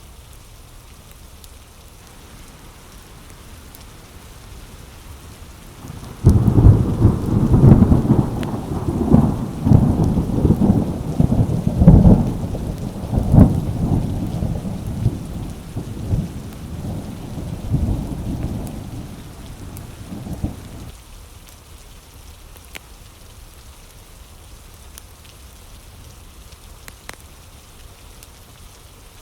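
Steady rain falling, with a peal of thunder that breaks in suddenly about six seconds in. It rolls and rumbles with several loud cracks for about fifteen seconds, then dies away, leaving the rain alone.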